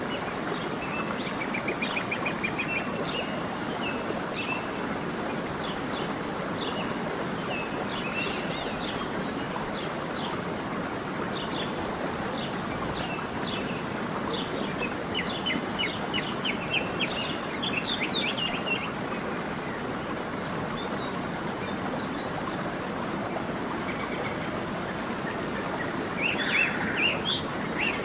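Small songbirds chirping and trilling over the steady rush of a flowing creek, with a burst of calls near the end.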